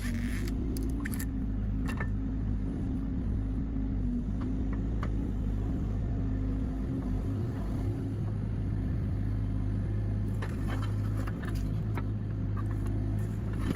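Excavator's diesel engine running steadily, with scattered short clicks and knocks from the digging work, more of them in the last few seconds.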